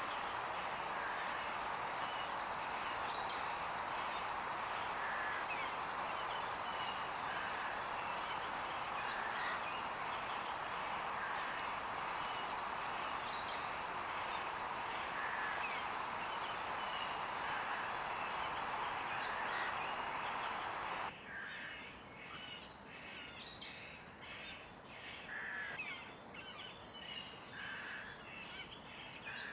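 Several small songbirds chirping, with many quick high notes that sweep downward, over a steady background hiss. About two-thirds of the way through the hiss cuts out abruptly and the chirping carries on against a quieter background.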